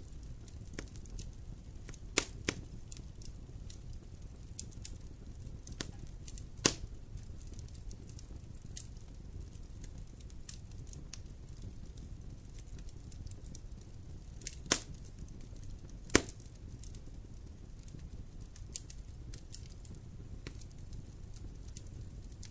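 Wood fire in a fireplace crackling: a steady low rumble of burning with frequent small ticks and a few sharp louder pops.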